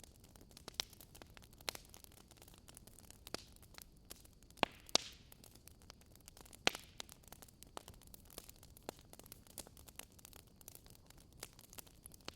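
Wood fire in a fireplace crackling: irregular small snaps over a faint hiss, with a few louder pops, two close together near the middle and another a moment later.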